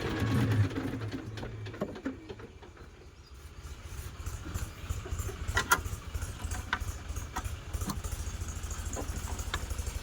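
Tractor diesel engine idling with a rapid, even low beat that comes up about four seconds in after a quieter stretch. A few sharp clicks sound over it.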